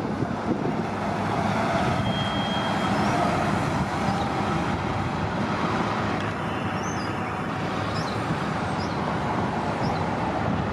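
City transit buses running at a bus terminal: a steady engine rumble and traffic noise that holds level throughout, with a few faint short high squeaks.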